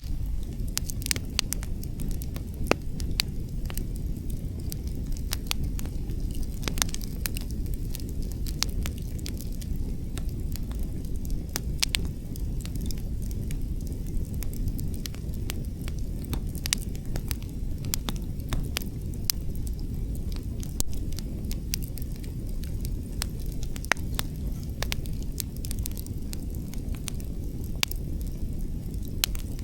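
Wood campfire crackling, with frequent sharp irregular pops and snaps from the burning logs, over a steady low rumble of wind.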